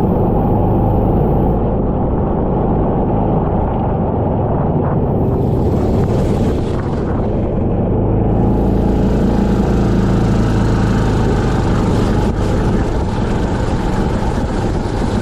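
Kart engine running continuously at racing speed, loud and unbroken, under a steady rushing noise.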